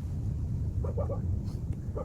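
Old Daedong power tiller's single-cylinder diesel engine running with a steady low chugging, a few short higher-pitched chirps over it about a second in and near the end.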